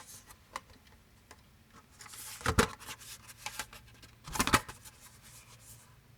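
Handling noise: scattered light clicks and two louder scraping bursts, about two seconds apart.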